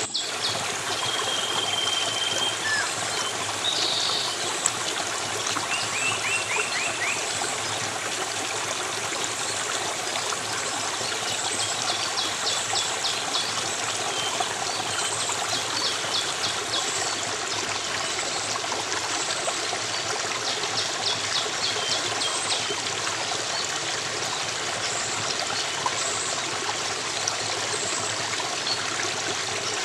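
Water in a stream flowing steadily. High chirps and short stuttering trills sound over it every few seconds.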